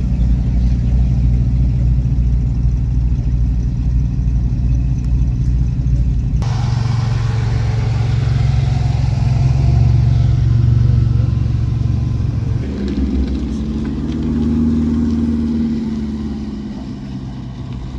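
Car engine running close by, a steady low drone; the sound changes abruptly about six seconds in, and its pitch rises and falls briefly near the end, like a light rev.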